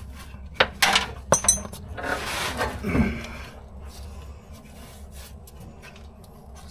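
A few sharp metallic clinks about a second in, one ringing briefly, then a scraping rustle for about a second, then small scattered ticks: metal parts and hand tools being handled while fitting a car's fuel tank.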